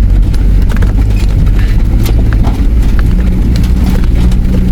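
Nissan Patrol's engine running low and slow in first gear, with scattered knocks and clicks of the tyres rolling over the rocky creek bed.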